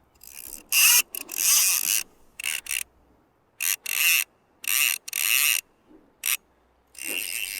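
Fly reel drag buzzing in a string of short bursts as a hooked steelhead pulls line off the spool in repeated runs.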